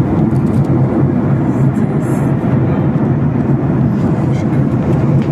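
Steady airliner cabin noise: a constant low drone of the engines and rushing air, heard from inside the passenger cabin.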